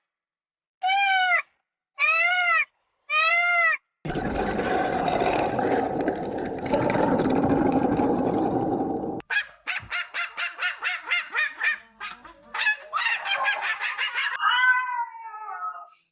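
A cat meows three times in quick succession. After about five seconds of steady noise, a fowl gives a fast run of short calls, about five a second, ending in a few longer wavering calls.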